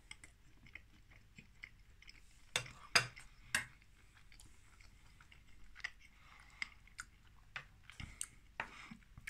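A man quietly chewing a mouthful of steak pie in gravy: soft, moist mouth clicks throughout, with three sharper clicks about two and a half to three and a half seconds in.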